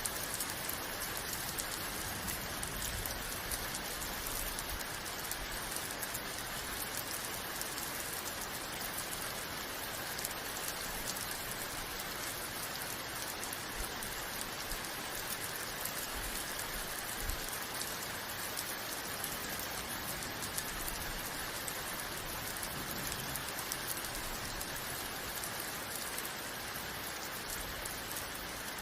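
Steady rain falling and pattering on surfaces, an even hiss with countless fine drops and no change in intensity.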